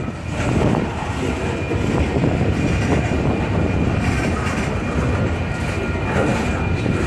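Slow-moving freight train of boxcars rolling past at close range: a steady rumble of steel wheels on the rails.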